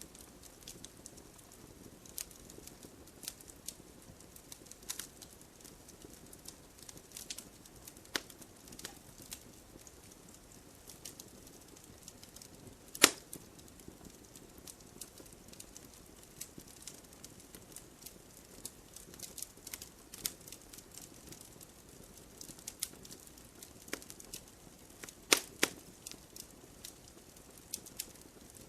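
Wood campfire crackling, with scattered small pops and a few sharper snaps, the loudest about halfway through and two more close together near the end.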